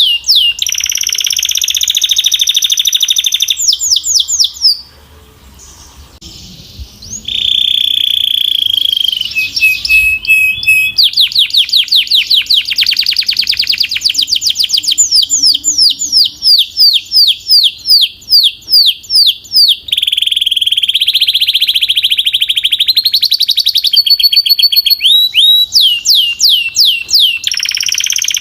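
Belgian canary singing loudly: fast trills and long rolls of repeated high whistled notes, changing from one phrase to the next, with a short break about five seconds in.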